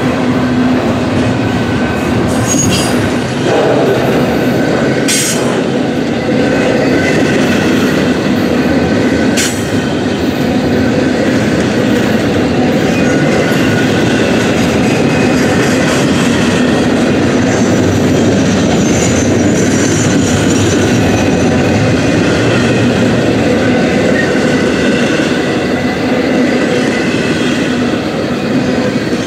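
Train cars rolling past steadily, steel wheels squealing against the rails, with sharp clacks from the wheels and rail joints a few times.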